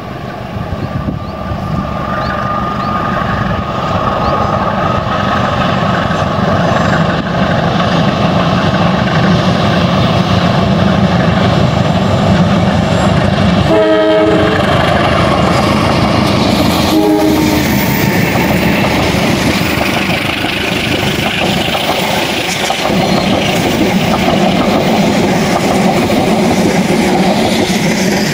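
Parcel train headed by two diesel-electric locomotives passing close by: the engines' rumble grows loud over the first few seconds, then the wagons' wheels clatter along the rails. Short horn toots sound about halfway through.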